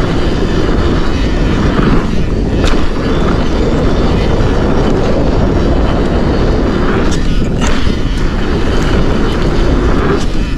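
Forbidden Dreadnought mountain bike descending a dirt trail: a steady rush of wind on the microphone and tyres rolling over the ground. A few sharp clicks and rattles come through, about a third of the way in and again past the middle.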